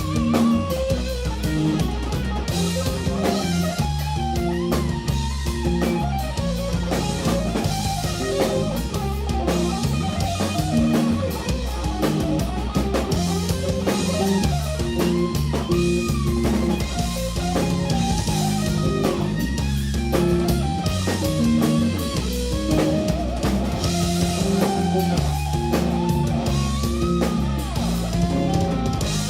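A band plays live instrumental jazz-rock fusion: electric guitar melody lines over a driving bass guitar riff and a drum kit with busy cymbals.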